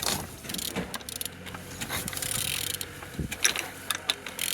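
Ratchety clicks and metallic rattling as a removed Renault K9K 1.5 dCi diesel engine is turned over by hand, with several sharper clicks in the second half.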